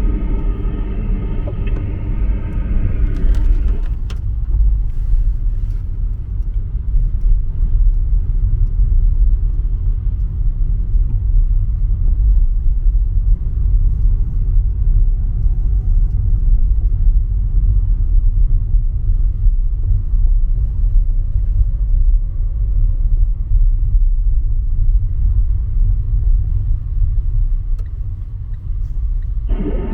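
A car driving, with a steady low road and engine rumble. Music plays over it for the first few seconds and comes back right at the end.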